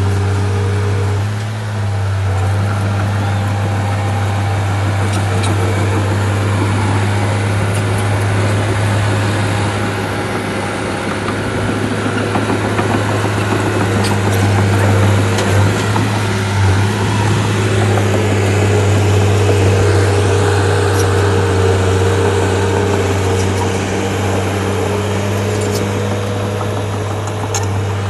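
Heavy earthmoving machine's diesel engine running steadily at an even pitch, with a few faint clicks over it.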